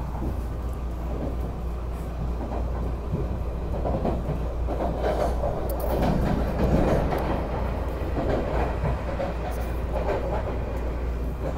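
Running noise of a Taiwan Railways Puyuma tilting electric train heard from inside the carriage at speed: a steady low rumble of wheels on rail, swelling a little in the middle.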